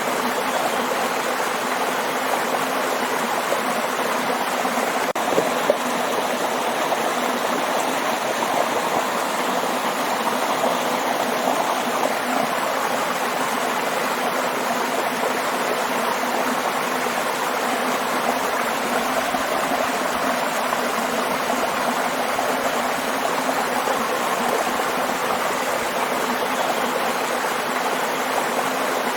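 Waterfall: a steady, even rush of falling water, with a brief click about five seconds in.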